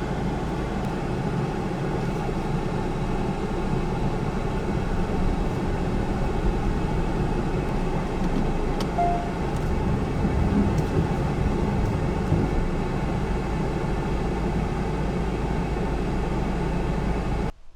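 A car driving, with a steady engine and road rumble. It cuts off abruptly near the end.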